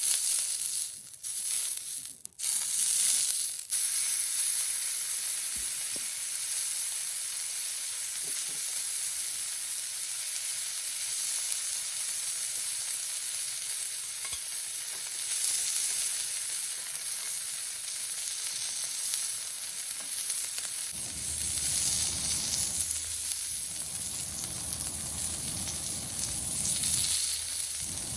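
Meat sizzling on a homemade iron griddle plate: a steady high frying hiss, broken by a few brief dips in the first few seconds. About three quarters of the way through, a lower, fuller rushing noise joins it.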